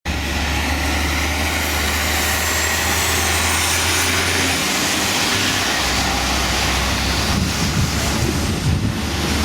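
Strong wind blowing across the microphone, a loud, steady rush with a low rumble underneath.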